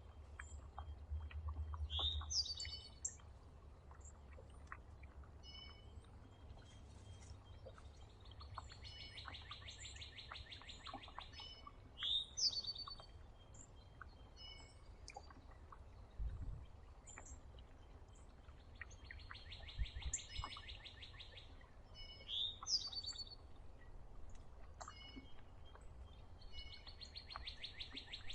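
Songbirds at a feeder: one bird repeats a trilled song lasting two to three seconds about every nine seconds, while short rising chirps from other birds come in between.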